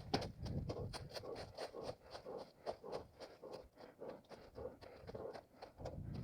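An orienteer's running footsteps on forest ground, a quick, even crunching of about three steps a second.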